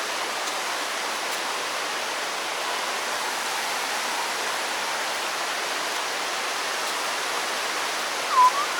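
Steady rush of a waterfall: an even hiss of falling water. A brief chirp sounds near the end.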